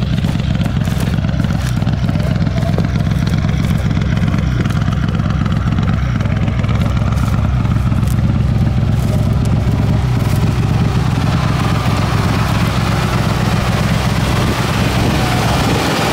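Mitsubishi Lancer Evolution rally car's turbocharged four-cylinder engine idling steadily while the car stands stopped.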